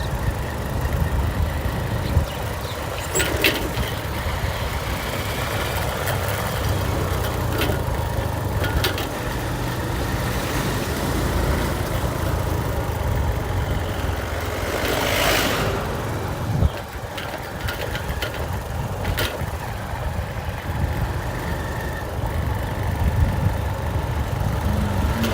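Motorcycle engine running steadily on the move, a low rumble, with a few sharp clicks and a brief rush of noise about two-thirds of the way through.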